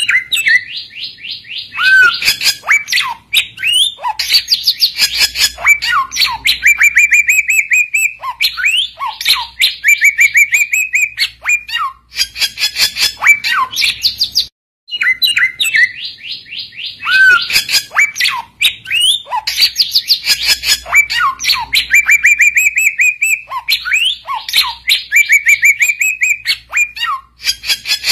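Chinese hwamei (samyong) singing a loud, varied song of rapid repeated notes, trills and whistled slurs, the full gacor song used to call and challenge rival birds. It breaks off briefly about 14 seconds in, then the same song sequence begins again.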